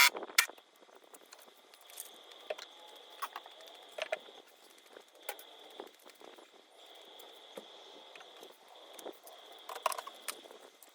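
Scattered clicks, knocks and light rattling from the Jeep's factory cargo floor panels and trim being taken out and handled, with two louder knocks at the start. A faint steady high whine sits underneath.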